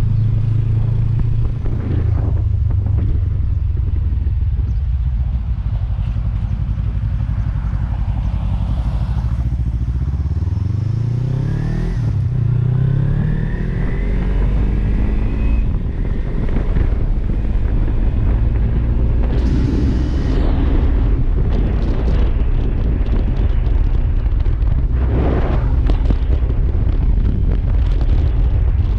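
Kawasaki Z300 parallel-twin engine running on the move, with heavy wind noise on the microphone. About ten seconds in, the engine note rises as the bike accelerates, breaks off briefly and rises again.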